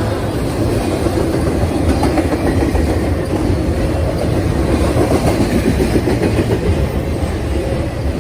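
Norfolk Southern freight train rolling past, a continuous loud rumble of cars and wheels, with a quick regular pulsing of wheels clicking over rail joints in the second half.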